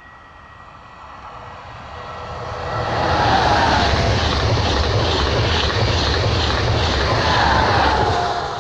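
Renfe AVE Class 100 high-speed electric train approaching and passing close by at speed. It swells for about three seconds, then makes a loud rush of wheels on rail with a regular beat of about two a second as the bogies go by, and fades near the end as the rear power car passes.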